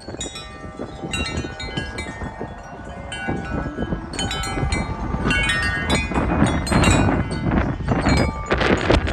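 Wind chimes ringing constantly and rapidly in strong gusting wind, with wind buffeting the microphone. The buffeting swells and grows louder about halfway through.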